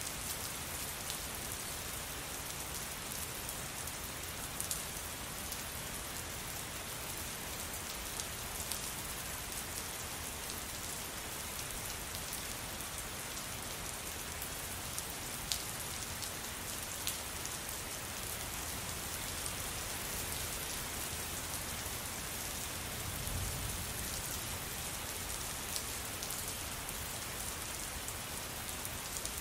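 Steady rain falling on a surface, an even hiss with a few sharper drop ticks scattered through.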